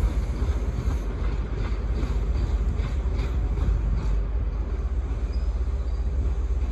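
High Speed Train with Class 43 diesel power cars pulling away, giving a steady low rumble. Faint clicks from the wheels crossing rail joints come between about one and four seconds in.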